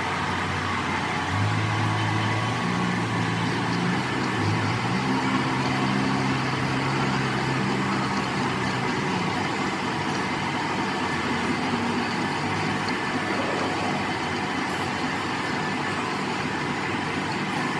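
An engine running, with a deeper hum that comes up about a second and a half in and fades away after about nine seconds, over steady machine noise.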